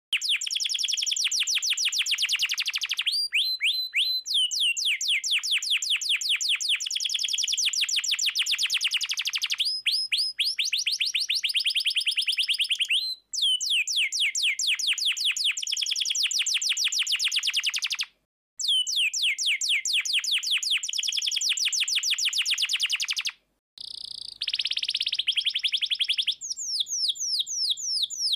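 Domestic canary singing vigorously in long, rapid trills of fast repeated high notes. The song is broken by a few sudden cuts where recordings are spliced together.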